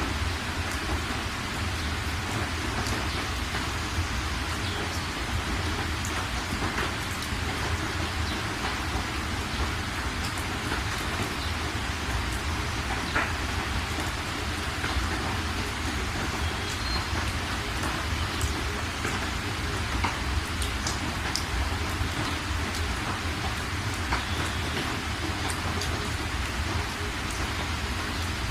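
Steady rain falling, an even hiss with scattered sharp drops ticking, over a constant low rumble.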